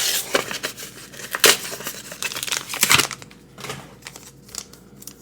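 Pokémon card booster pack's foil wrapper crinkling and tearing as it is opened by hand, in sharp crackles near the start, about a second and a half in and about three seconds in, with softer rustling between and fading near the end.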